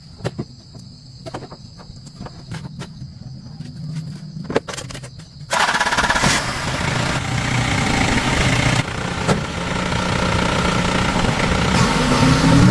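Scattered sharp clicks and knocks, then about halfway through a motor vehicle's engine starts running loudly and suddenly, rising in pitch near the end.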